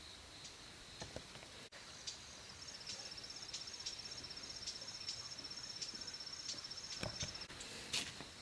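Faint insect chorus: a steady high hum, with a fast pulsing trill from about two and a half seconds in that stops near the end, and a few light knocks.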